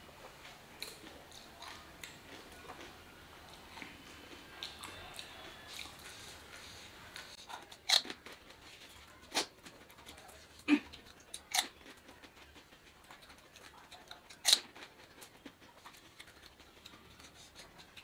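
Pani puri being chewed with a full mouth, soft and wet at first, then about five sharp crisp cracks in the second half as the hollow fried puri shells are cracked and bitten.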